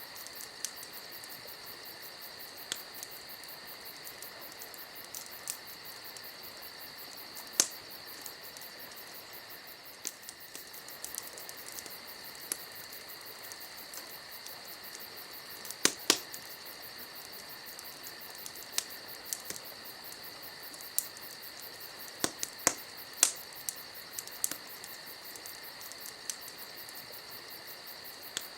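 Campfire crackling with scattered sharp pops, a few much louder than the rest, over a steady chorus of chirping crickets.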